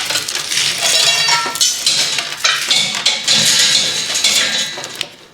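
Metal tools and steel parts clanking and clinking against each other in quick, irregular knocks, several of them ringing briefly.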